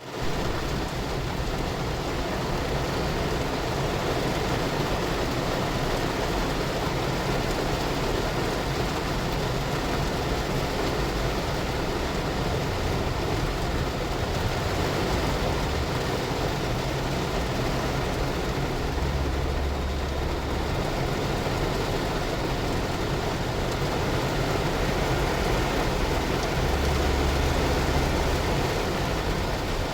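Rain falling on a car's glass: a steady, even hiss with a low rumble underneath.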